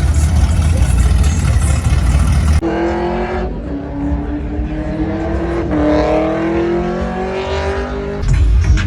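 A vehicle engine accelerating hard, its pitch climbing, dropping back twice and climbing again, the way it does through gear changes. Heavy bass-laden sound comes before it and returns near the end.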